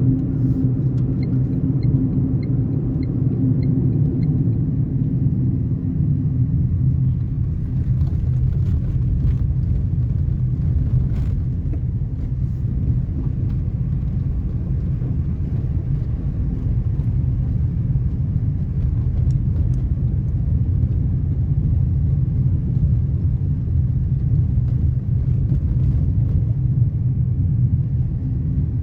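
Tata Tiago NRG on the move: steady engine and road rumble, with a quick, even run of light ticks in the first few seconds.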